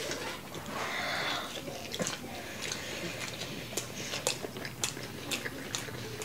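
People chewing mouthfuls of pizza, with many short, sharp mouth clicks.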